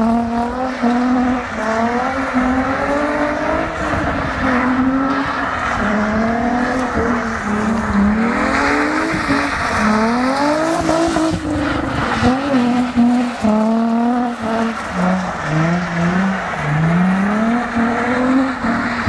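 Car engine revving up and falling back over and over, its pitch climbing and dropping every second or two as the car is driven hard.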